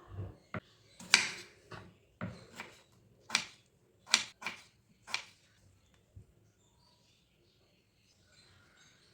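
A series of short knocks and scrapes from kitchen utensils and food being handled, about ten in the first five seconds, each dying away quickly, then quiet.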